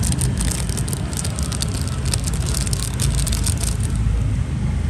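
Steady low rumble of road traffic, with a quick run of small clicks and rustles from objects being handled close by.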